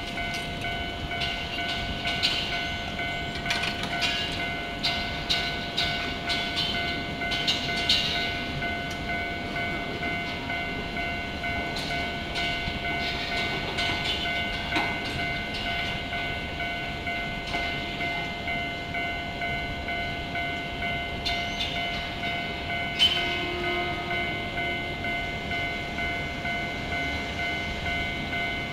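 Tokyo Metro Ginza Line 01 series train passing slowly over a level crossing, its chopper control giving a steady high whine. Under it runs a regular pulsing rhythm, typical of the crossing's warning bell, with scattered sharp clacks from the wheels.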